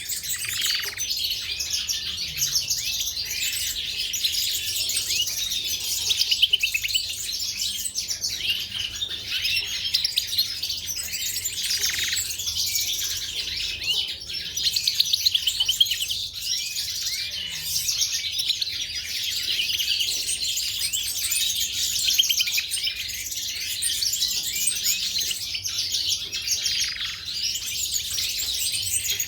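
Caged canaries and European goldfinches singing and chirping together, a dense, continuous run of rapid high trills and twitters.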